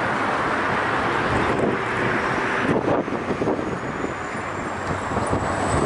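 Volgodon-type river cargo motor ship under way: a steady rushing noise with a faint low engine hum beneath it, and wind on the microphone.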